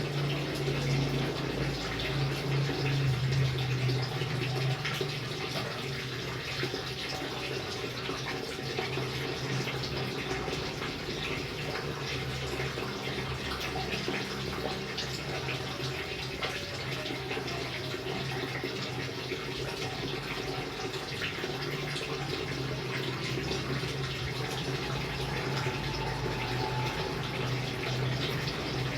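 Rain falling steadily: an even hiss thick with the patter of drops, over a low steady hum that is strongest in the first few seconds and again near the end.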